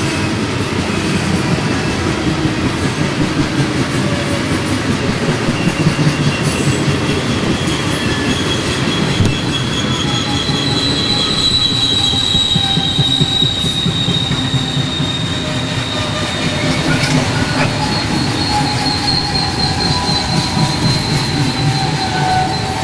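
Coal train's hopper cars rolling past on steel rails: a steady heavy rumble of wheels with some clicking over rail joints. High, thin wheel squeal comes in about ten seconds in and keeps on through the second half.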